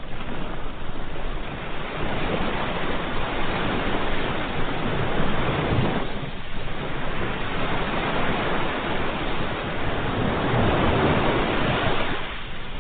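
Ocean waves surging and washing on a shore: two long swells of surf, each about six seconds, with a short lull between them.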